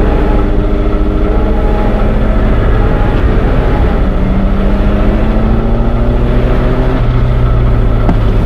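Train engine running with a loud, steady drone made of several held tones, some drifting slowly upward in pitch.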